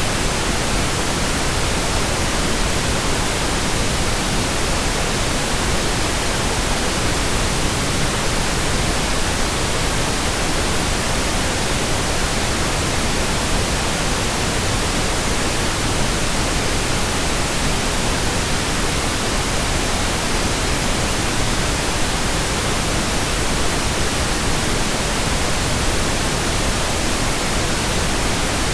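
Steady, unchanging synthetic white noise: an even hiss spread across all pitches, with no variation, as played for infant sleep.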